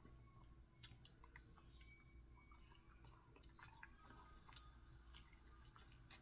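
Faint chewing and crunching of crispy fried chicken, with scattered soft crackles of the breading over a low steady hum.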